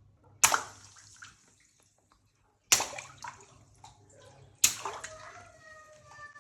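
Three water balloons bursting about two seconds apart, each a sharp pop followed by a splash of water running off.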